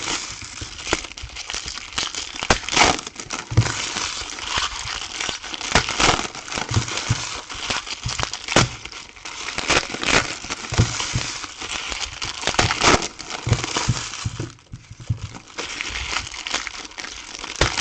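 Plastic wrapping on a box of trading cards being crinkled and handled as the box is opened, with irregular sharp crackles and a brief lull about three-quarters of the way through.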